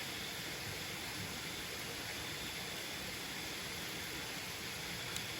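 Waterfall rushing as a steady, even noise, with a faint steady high insect note above it. There is a small tick near the end.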